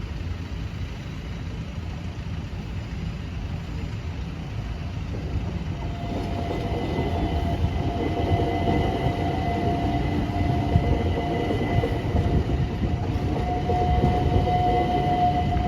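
A train approaching and running through a level crossing, its low rumble building steadily louder. A steady high whine comes in about six seconds in and strengthens as the train draws near.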